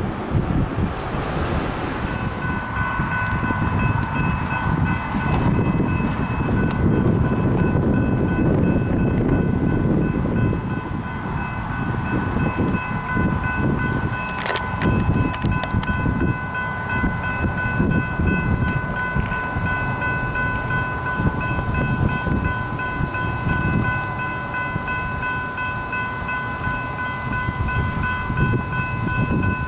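Freight train cars rolling by with a continuous low rumble. From about two seconds in, a steady high-pitched tone is held over it.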